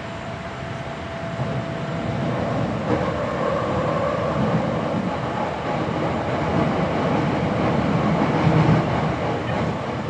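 Running noise heard inside a Hankyu 7300-series commuter train car: wheels and motors running at speed, with some clickety-clack from the rails. The noise grows steadily louder over the first few seconds and stays loud.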